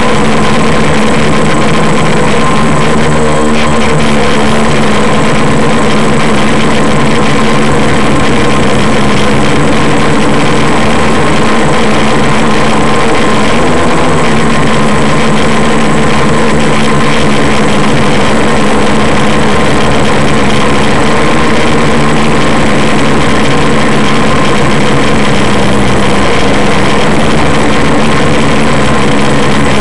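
Quadcopter's electric motors and propellers running in flight, a loud steady whine of several tones over a rushing noise, with brief shifts in pitch about three seconds in and again around fourteen seconds.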